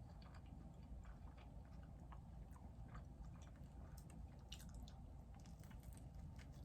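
Faint chewing and biting of a turkey sandwich, with small wet mouth clicks that come more often in the second half, over a steady low hum.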